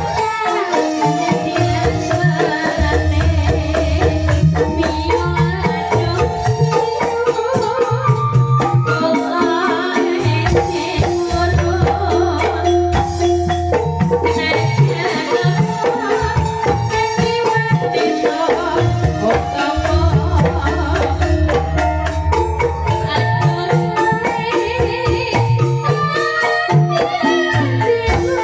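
Calung Banyumasan music: a Javanese bamboo xylophone ensemble playing dense, fast struck patterns over a recurring low bass.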